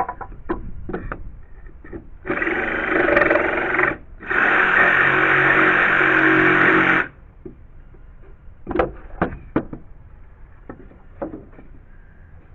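Cordless jigsaw cutting wood in two bursts, about a second and a half and then nearly three seconds after a brief pause, finishing a notch roughed out with a circular saw. Scattered knocks and clicks of wood and tool handling come before and after the cuts.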